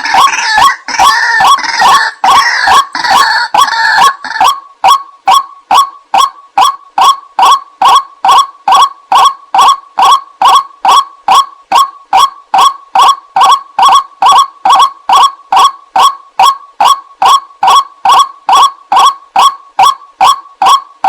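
Loud lure recording of white-breasted waterhen (ruak-ruak) calls: a busy overlapping chorus for the first four or so seconds, then a single call repeated at an even pace, about two and a half times a second.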